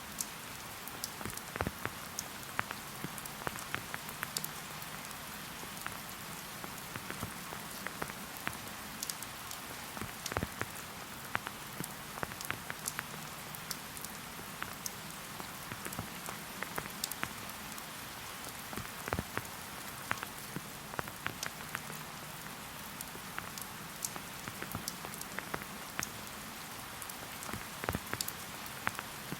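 Steady rain falling in a forest, a continuous hiss with many individual drops pattering close by.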